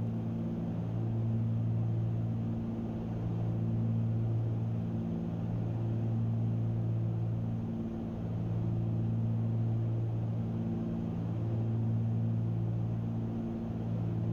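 Cessna 310Q's twin Continental six-cylinder engines and propellers droning steadily in flight, heard in the cabin, with a slow regular swell about every two seconds: the beat of the two propellers turning at slightly different speeds.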